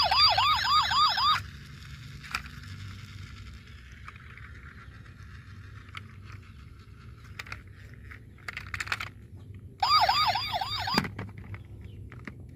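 Electronic toy emergency-vehicle siren sounding in two short bursts, one at the start and one about ten seconds in, each a quick series of rising yelps at a few per second. Faint clicks and rattles are heard between the bursts.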